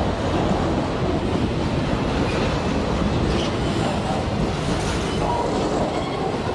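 Freight train of grain hopper wagons rolling past, a steady rumble and rattle of steel wheels on rail, with a few brief faint wheel squeals.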